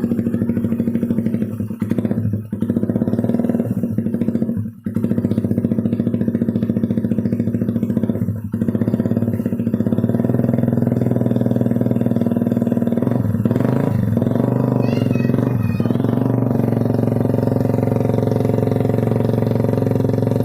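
Suzuki Satria F150 motorcycle engine running steadily through an RCB GP16 aftermarket racing exhaust, with a few brief dips in the sound in the first eight seconds and a slight wavering in pitch around the middle.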